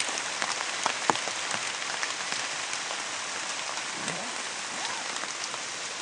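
Light drizzle falling on leaves: a steady hiss with many scattered drop ticks.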